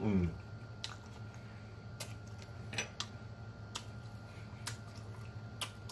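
A man chewing lasagna with his mouth closed: a short falling 'mmm' hum right at the start, then soft wet mouth clicks and smacks about once a second.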